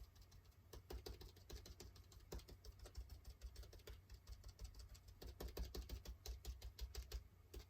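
Faint, rapid, irregular light taps of a paintbrush stippling acrylic paint onto a paper collage page.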